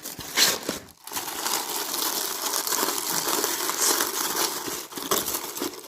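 Plastic packaging crinkling and rustling as a parcel is unwrapped by hand: a short burst at first, then steady handling for several seconds.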